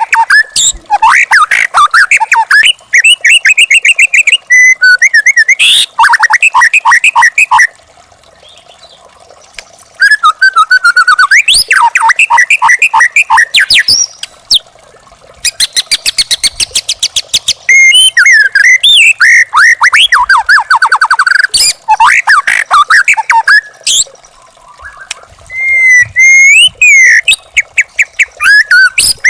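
White-rumped shama (murai batu) singing loud bursts of fast repeated whistles, trills and chattering notes. The song breaks off in short pauses about eight seconds in and again near the end.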